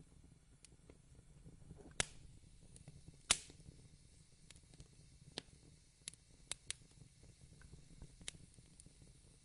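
Faint crackling of a wood fire: irregular sharp pops over a low steady rumble, the two loudest pops about two and three seconds in.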